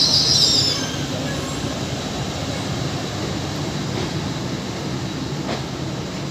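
A train moving along the track: a steady rumble of wheels on rails, with a high screech of wheel squeal that fades in the first second.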